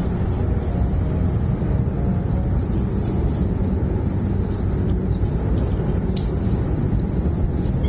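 Steady low rumbling noise, with a few faint, short high bird chirps mostly near the end.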